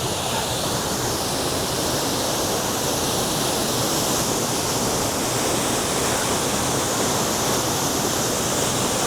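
A waterfall: falling water crashing steadily into its pool.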